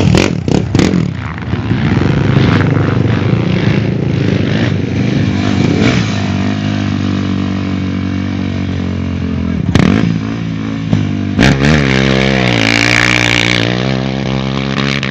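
Motorcycle engines running and revving, with a couple of sharp knocks about ten and eleven and a half seconds in.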